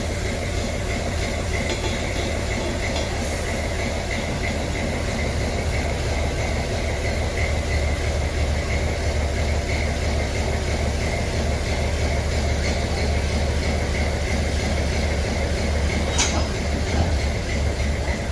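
Locomotive engine running with a steady low rumble as it slowly moves a train along the track, with a faint high squeal coming and going. A single sharp clank sounds about sixteen seconds in.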